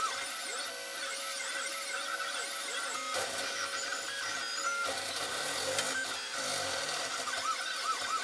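Desktop 3D printer's stepper motors whining in short rising-and-falling tones, several a second, as the print head moves back and forth while printing; the pattern changes about three seconds in.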